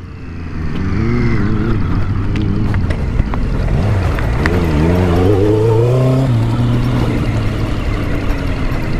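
Triumph Street Triple motorcycle engine running at low revs on a rough trail, its pitch wavering and climbing for a couple of seconds in the middle, then dropping back suddenly just after six seconds in.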